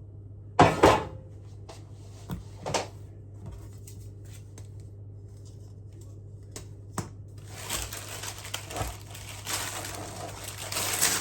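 Kitchen handling noises: a sharp knock about a second in and a lighter one a couple of seconds later, a few small clicks, then several seconds of crinkling rustle that grows louder toward the end.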